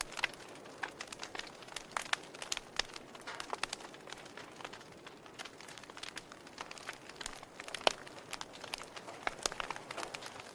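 Wood fire burning in a fireplace, crackling with many irregular sharp pops, one of them markedly louder about eight seconds in.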